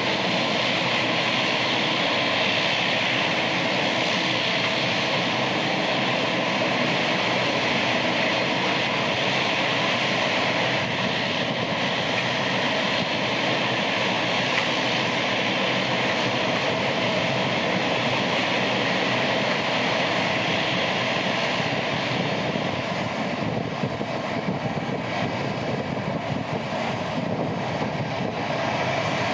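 Boeing 777 jetliner's turbofan engines running with a steady, loud rumble and hiss. About 23 seconds in, the sound shifts to a Boeing 787-8 Dreamliner's engines.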